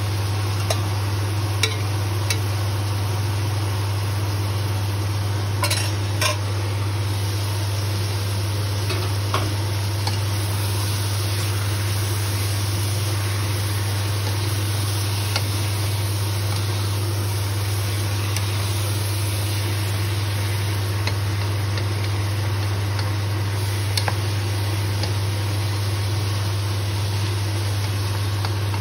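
Pork cubes and onions sizzling in a pot as they are stirred with a wooden spatula. A metal spoon and the spatula knock sharply against the pot a few times, mostly in the first several seconds. A steady low hum runs underneath.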